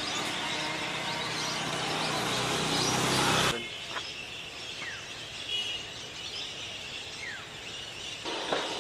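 Waterside ambience: a steady rushing noise that drops suddenly about three and a half seconds in, and a few short falling bird whistles.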